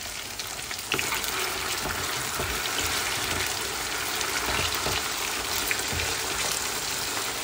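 Potato wedges sizzling in hot oil in a frying pan, being par-fried to a golden colour, with a spatula turning them. The sizzle steps up about a second in.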